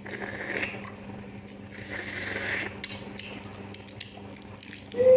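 Close-miked eating sounds: scattered crunching clicks, with two longer hissing sounds about a second in and about two seconds in. A brief loud pitched sound near the end is the loudest moment.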